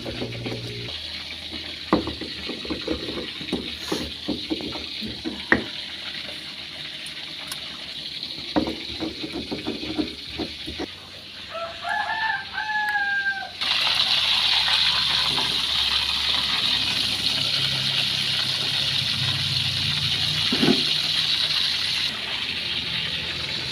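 Scattered clicks and knocks, then a rooster crows once about twelve seconds in. A steady hiss starts right after and carries on to the end.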